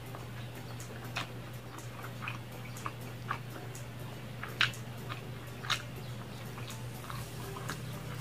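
Close-up mouth sounds of a person chewing food, with irregular wet clicks and smacks. A steady low hum runs underneath.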